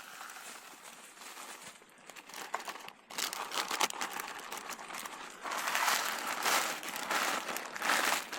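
Crackers being crushed by hand inside a plastic bag: the bag crinkles and the crackers crunch in quick, dense crackles that grow louder about halfway through.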